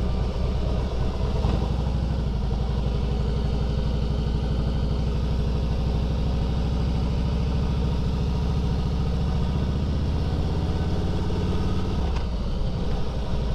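Harley-Davidson Fat Boy Lo's V-twin engine running under way at low speed. Its pitch climbs gradually, then drops suddenly near the end as it shifts up a gear.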